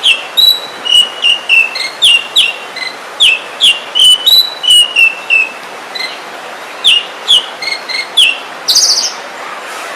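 Oriental magpie-robin singing: loud, clear whistled notes repeated about twice a second, many sliding down in pitch, with a short harsh rasping note near the end.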